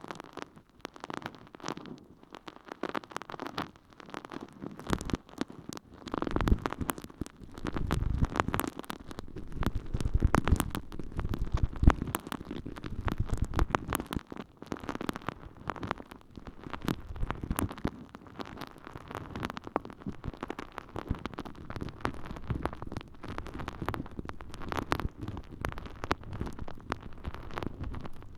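Water-soaked holey sponge squished and rubbed in a microphone's ear, giving a wet squelching and crackling. It gets louder and fuller from about six seconds in, then settles back to softer squishing.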